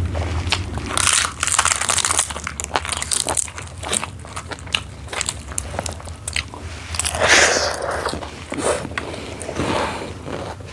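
A person eating close to the microphone: biting and chewing with crunching and many small mouth clicks, louder crunchy bites about a second in and again about seven seconds in.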